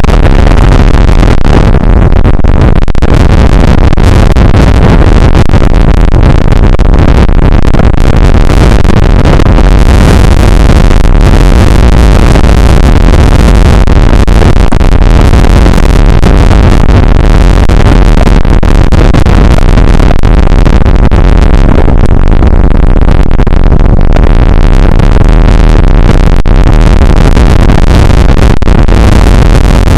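Rain shower and wind beating on an outdoor weather camera's microphone: a steady, heavy rush of noise with a strong low rumble, overloaded and distorted near full level.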